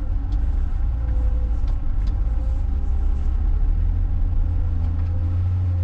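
Diesel engine of a John Deere 544K wheel loader running steadily, its pitch rising a little about halfway through.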